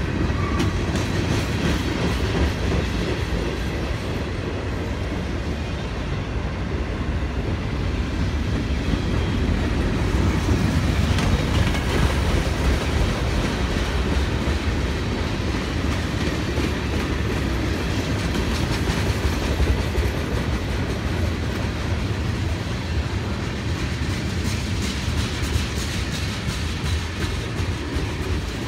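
Norfolk Southern freight train's cars rolling past at steady speed: a continuous low rumble with the wheels clicking over rail joints.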